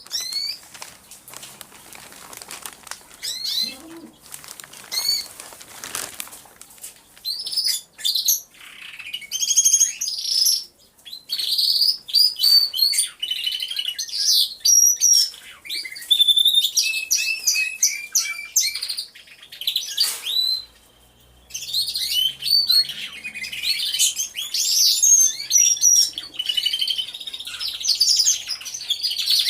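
Many canaries singing at once: overlapping fast trills and chirping phrases, with a brief lull about two-thirds of the way through.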